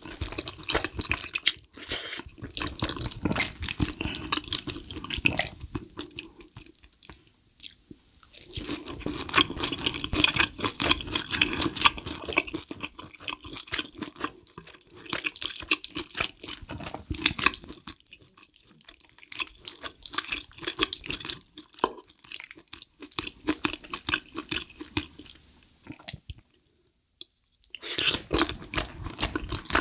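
Close-miked wet chewing and slurping of creamy, cheesy wide-noodle pasta, full of small wet smacking clicks. It comes in stretches of several seconds with a few brief pauses between mouthfuls.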